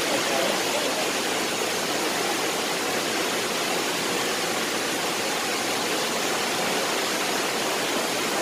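Shifen Waterfall's falling water, rushing steadily and evenly, with no change in level.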